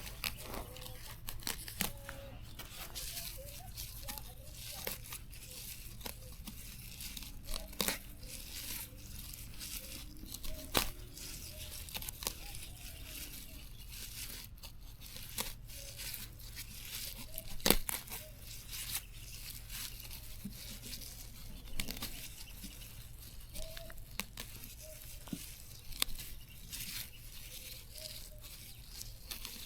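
Plants being torn and snapped by hand: an uneven run of tearing and crackling with sharp snaps, a few much louder than the rest.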